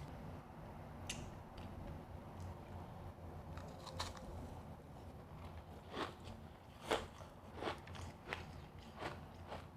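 Crunchy refrozen powdery ice being chewed close to the microphone: a few faint crackles at first, then steady crunches about once every 0.7 s from just past halfway.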